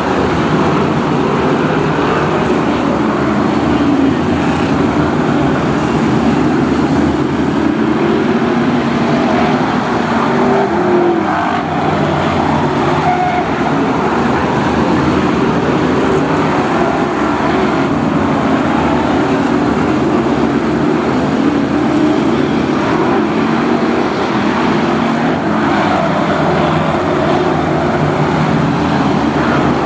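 Several BriscaF1 stock cars racing, their V8 engines running hard in a steady mix of engine notes that rise and fall as the cars go by.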